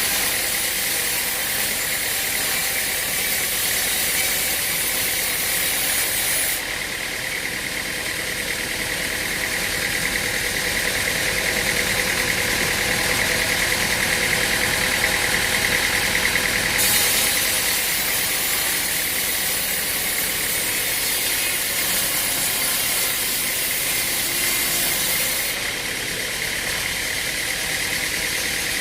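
Engine-driven machinery running steadily, with a high hiss that drops out about a quarter of the way in, comes back past the middle and drops out again near the end.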